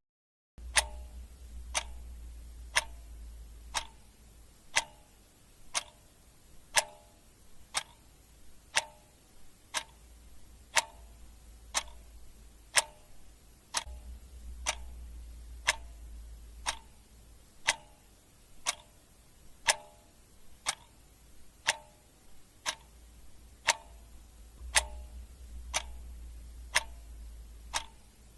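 Clock ticking steadily, one tick a second, with a faint low rumble coming and going underneath.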